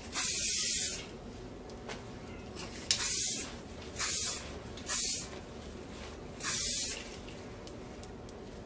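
Aerosol hairspray can sprayed in five short hissing bursts: the first about a second long, the other four briefer and spread through the next several seconds.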